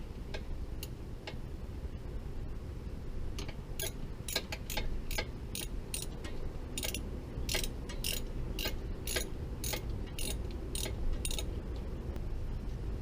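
A run of sharp metallic clicks, about two a second, from hand tools working on a motorcycle engine, over a steady low hum.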